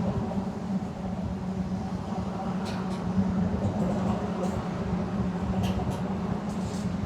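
Steady rumble of vehicle traffic with a constant low hum underneath and a few faint ticks.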